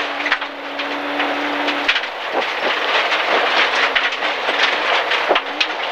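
MG ZR rally car's 1.4-litre engine, heard from inside the car on a gravel stage, held at steady revs and then dropping about two seconds in before climbing again. Gravel rattles and pings against the underside of the car throughout.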